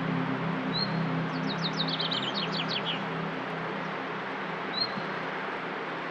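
Small songbirds calling: a short high chirp twice, and about a second in a quick run of falling whistled notes, over a steady hiss.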